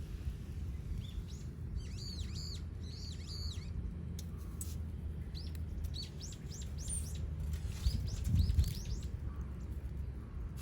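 Small birds chirping in short, quickly repeated high notes, in two bouts, over a steady low rumble.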